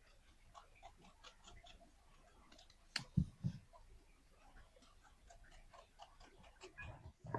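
Faint, irregular crackling ticks from a cooking fire. About three seconds in there is one sharp click, followed by two dull knocks.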